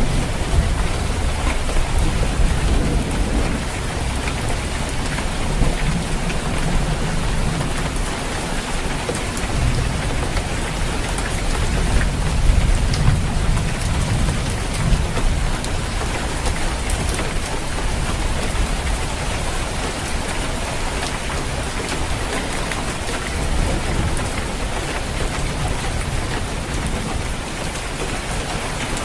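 Heavy rain falling on a roof: a steady hiss with fine pattering drops. A low rumble swells and eases through the first half and quietens later on.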